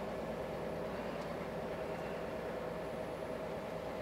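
Scania truck's engine running, a steady drone heard inside the cab, with a faint constant hum over it.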